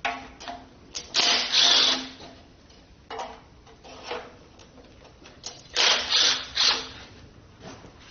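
Small power tool running in short bursts: two runs of about a second each, with shorter rattling bursts between.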